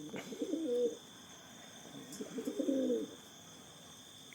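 Domestic pigeons cooing, two bouts of low coos, the first in the opening second and the second about two to three seconds in.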